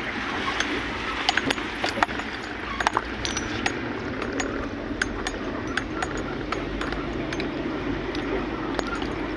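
Steady rumbling noise of a vehicle on the move, with irregular sharp clicks and clinks of loose things rattling, most frequent in the first few seconds.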